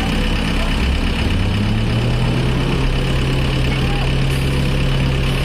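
Heavy truck engine running steadily, picking up a little speed about one and a half seconds in and then holding at the higher note.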